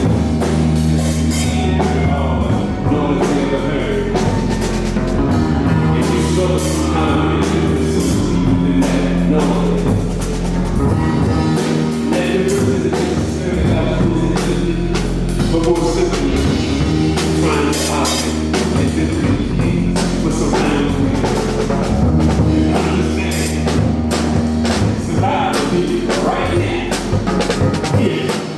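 Band playing: a drum kit over a slow, repeating bass line of held low notes, with other instruments on top.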